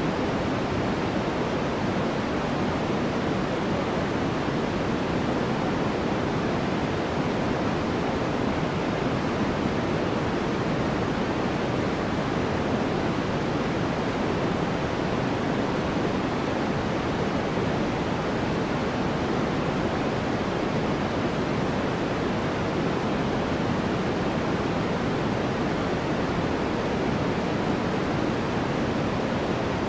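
Continuous synthetic sleep noise, a steady, even rush that never changes. It is fuller in the low and middle range than in the treble.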